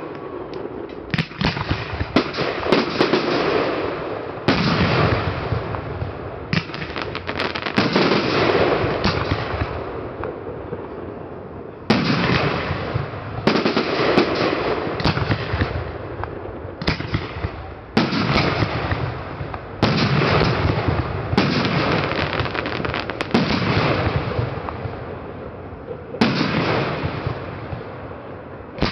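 Aerial firework shells bursting one after another, a sudden boom every one to three seconds, each trailing off in a long echoing rumble with crackling.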